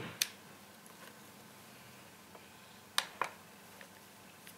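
Short sharp clicks from handling a small electronics kit: a DC barrel plug pushed into the clock board's power socket at the start, then two more quick clicks close together about three seconds in.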